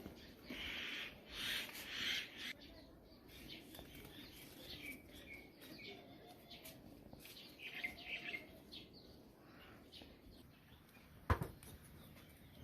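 Birds chirping on and off, faint, with a couple of short noisy rustles in the first two seconds and a single sharp knock near the end.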